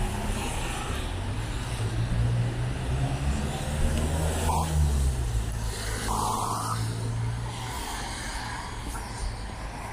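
A motor vehicle's engine runs at low revs close by, a steady low hum that dies away about eight seconds in. It sits over general city traffic noise.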